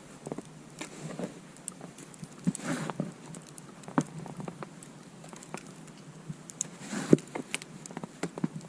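Irregular crunching and scuffing in deep snow, with longer swishing crunches about two and a half seconds and seven seconds in.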